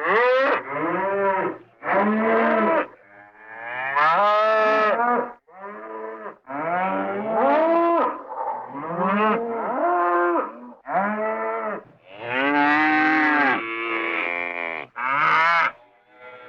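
Cartoon sound-effect cow moos from the Hanna-Barbera library: about a dozen short moos one after another, each bending up and then down in pitch.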